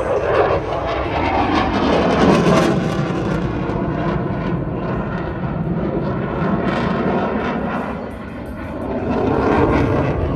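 Aircraft engine noise of a display aircraft flying past. It swells loudest a couple of seconds in, dips, and swells again near the end.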